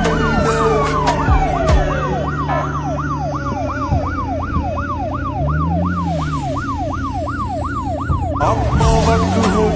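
Siren yelping rapidly up and down, about three sweeps a second, with a second siren tone falling steadily in pitch over the first two seconds. Sharp rhythmic hits join in near the end.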